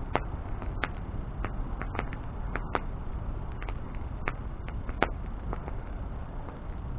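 Wood bonfire burning: a steady low rumble with irregular sharp crackles and pops of the burning wood, a few of them louder snaps.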